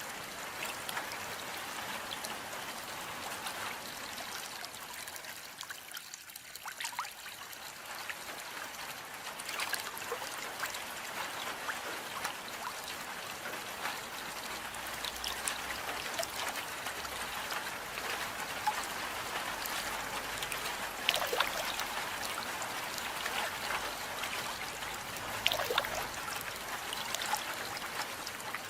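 Steady rain with close, trickling run-off water: a continuous hiss scattered with small drop ticks, thinning briefly about six seconds in.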